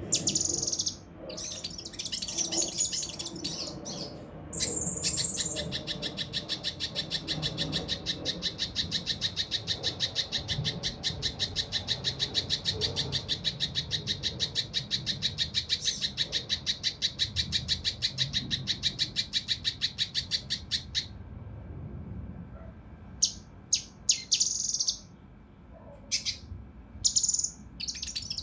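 Kinoi (cucak rante mas) singing. A few calls open, then a long fast run of rough, evenly spaced high notes, about six a second, lasts some fifteen seconds. Scattered single calls come near the end. The rapid run is the rough, dense 'tembakan' volley prized in this bird's song.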